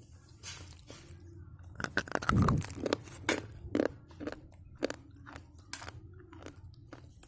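Slate pencil being bitten and chewed: a strong crunching bite about two seconds in, then a quick run of sharp, brittle crunches as the chalky pieces are ground between the teeth.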